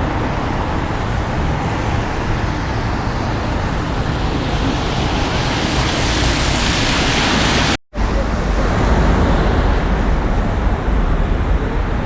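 Steady street traffic noise, with a hiss that swells toward a louder peak about seven seconds in. The sound cuts out for an instant just before eight seconds, then carries on with a heavier low rumble.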